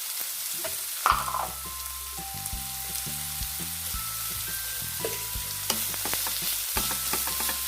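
Chopped onions frying in hot oil in a pan, sizzling steadily, with the short clicks and scrapes of a spoon stirring them while they soften.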